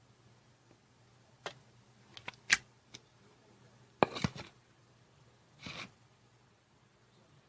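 Slime being handled: a handful of sharp clicking pops, a louder cluster of pops about four seconds in, and a short, softer squish near six seconds.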